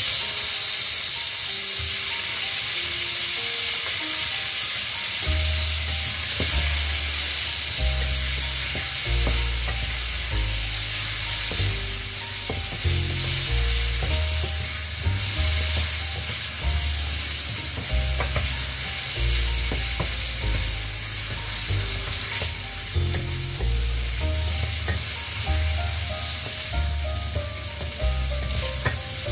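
Tomato wedges and sliced garlic sizzling in hot oil in a wok, stirred with a wooden spatula. Background music with a steady bass line comes in about five seconds in.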